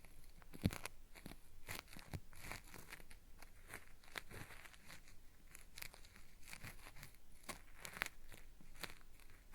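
Cotton swab scraping inside a binaural microphone's ear: a gritty, peeling-like crackle of irregular scratches, several a second, with a sharper crack about a second in and another near eight seconds.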